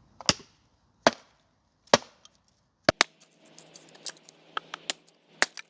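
Dry wood being broken up for a fire: four loud, sharp wooden cracks about a second apart, then a quicker run of smaller cracks and snaps over a faint steady hum.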